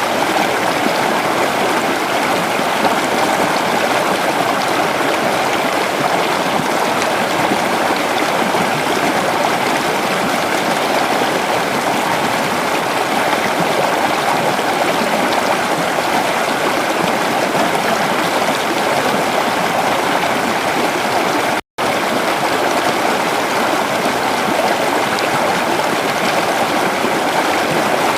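Creek water flowing steadily over rocks, a constant rushing and babbling. The sound cuts out to silence for a split second about two-thirds of the way through.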